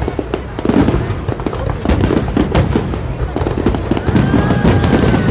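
Fireworks display: a dense, rapid string of bangs and crackles going off close together.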